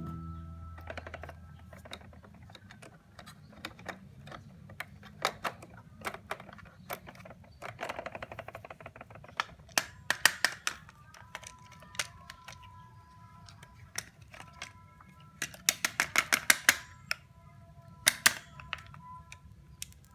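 Sharp clicks and taps of handling small parts, some single and some in quick runs of several, the densest near the middle and towards the end.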